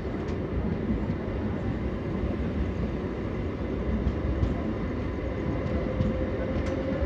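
MEMU electric multiple-unit train running along the line, a steady rumble of wheels on track heard from the open doorway. A faint whine comes in about five seconds in and rises slightly in pitch.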